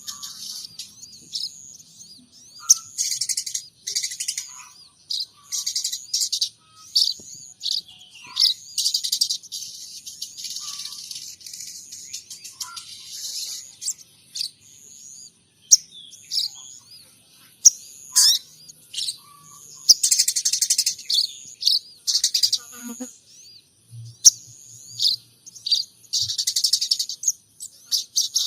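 Sogon trotol songbird singing a fast run of high chirps and trills in bursts, mixing in imitated munia and tree sparrow calls.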